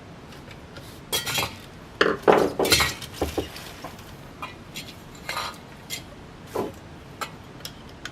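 Small metal parts and hardware clinking and knocking as they are handled, in irregular bursts: a cluster of louder clatter between about one and three and a half seconds in, then lighter scattered clinks.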